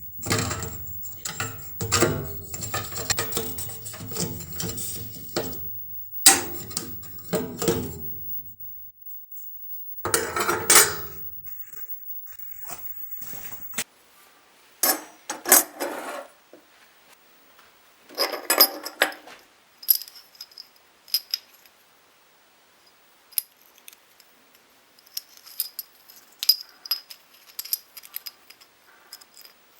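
Metal parts being handled: clinking and rattling in a dense stretch at first, then a few separate bursts, then scattered light clinks.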